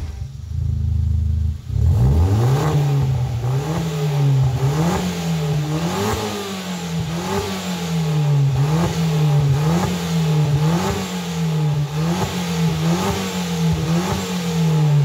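Vauxhall Corsa VXR's 1.6-litre turbocharged four-cylinder engine revving through a Twister Sport aftermarket exhaust with a backpressure valve. After a brief idle it takes a run of quick throttle blips, about one a second, each rising and falling, then settles back down near the end.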